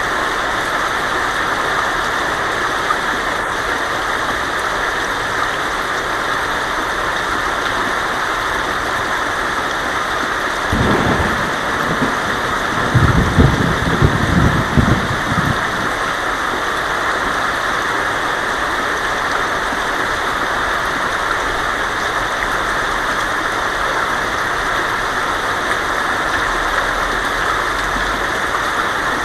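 Heavy rain pouring steadily on a tin roof, with a low rumble of thunder about halfway through that swells louder for a couple of seconds and dies away.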